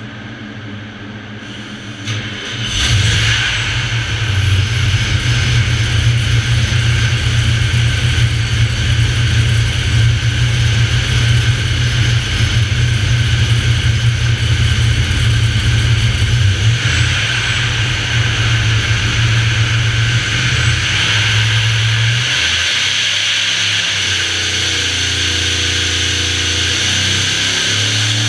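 Vortech V-7 YSi supercharged LS7 V8 running on an engine dyno. It picks up and gets loud about two and a half seconds in, holds a steady speed, and its note changes about 22 seconds in.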